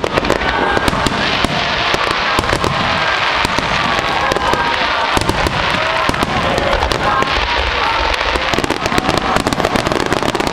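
Aerial fireworks bursting in quick succession, a dense, continuous run of bangs and crackles.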